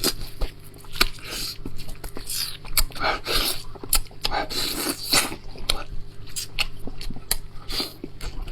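Close-up chewing and lip-smacking on red-braised lamb chops, with quick, irregular wet clicks.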